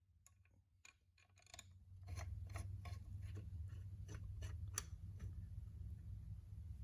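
A run of light metallic clicks, about two or three a second, as a tractor water pump and its bolts are worked into place by hand, over a low steady hum.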